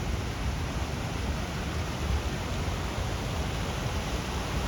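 Steady downtown street ambience: a continuous low rumble with an even hiss over it, no distinct events standing out.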